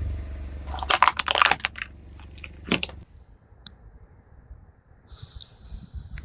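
Car tyre rolling over a plastic toy vehicle and crushing it, a burst of cracking and crunching plastic about a second in over the low rumble of the car, then one more crack. After a cut it goes quieter, and a steady high hiss comes in near the end.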